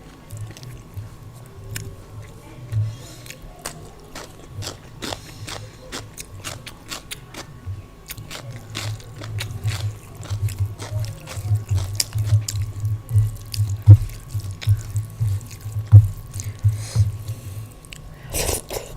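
Close-miked eating of daal and rice: wet chewing and many small mouth clicks and smacks, growing louder in the second half, with a louder crunch-like burst near the end.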